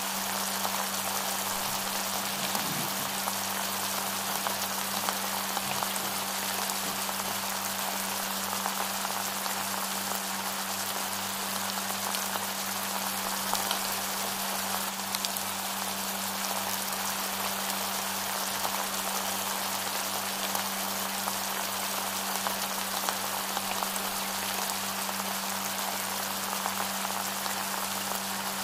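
Chicken masala frying in hot oil in a karahi: a steady, dense sizzle and crackle, with a steady low hum underneath.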